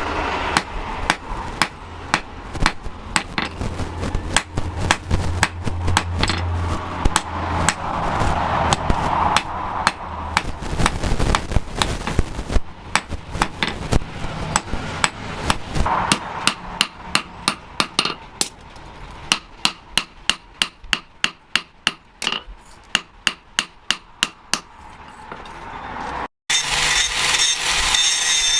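Blacksmith's hammer beating steel on an anvil: a steady train of sharp, ringing blows that turns quicker and lighter in the second half. Near the end it cuts to a rough, steady hissing scrape.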